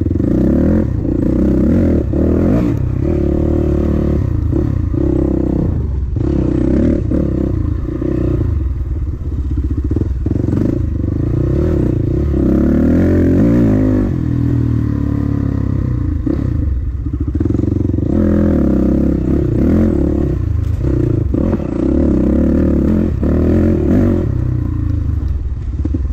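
Dirt bike engine being ridden hard, its revs rising and falling constantly with the throttle, with frequent knocks and rattles from the bike over rough track.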